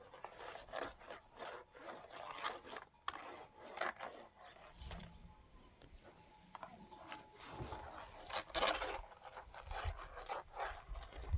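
Irregular scraping and rubbing, with a few sharper scrapes or knocks about four seconds in and again past the eight-second mark.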